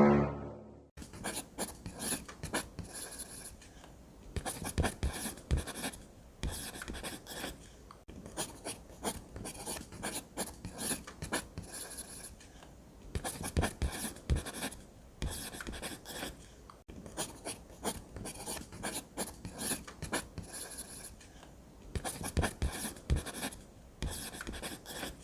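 Pen strokes scratching on paper during drawing: irregular short scrapes, some louder, with brief pauses between bursts of strokes.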